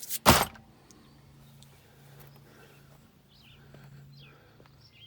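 A short, loud rustling burst about a quarter second in, then faint short bird chirps, several between about three and four and a half seconds in, over a low steady hum.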